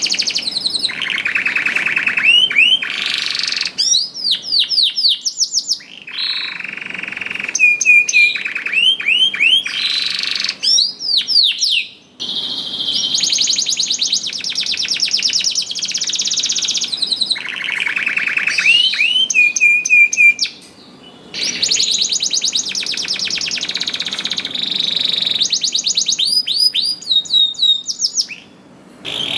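Domestic canary singing in full, continuous song: long rolls of rapid repeated notes alternate with fast up-and-down whistled sweeps. The song breaks off briefly about twelve and twenty-one seconds in, and again near the end.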